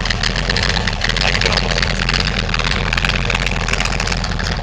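Chevrolet Corvette Stingray's V8 engine idling, loud and steady.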